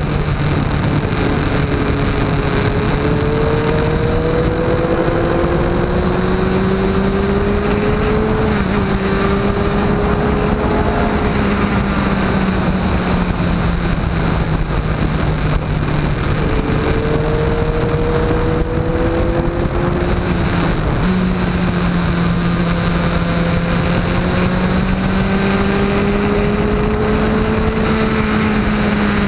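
Motorcycle engine heard from on board while riding, its pitch slowly rising and falling with the throttle through the bends, with a sudden jump in pitch about two-thirds of the way through, over a steady rush of wind and road noise.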